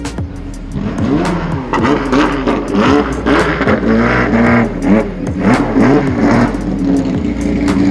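Car engine revved over and over in quick throttle blips, its pitch rising and falling several times a second.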